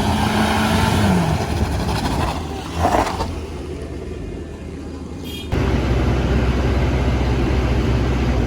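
Heavy vehicle engines working on a steep climb. A steady engine note drops in pitch about a second in, and about five and a half seconds in the sound cuts abruptly to a louder, steady low engine drone.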